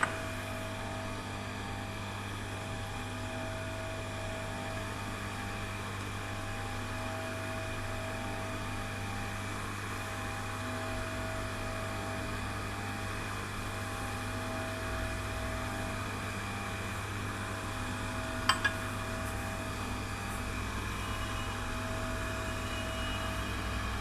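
GD-3 turning tool grinder running steadily: a constant low hum with a few steady tones above it. A sharp click sounds at the very start and a quick double click about 18 seconds in.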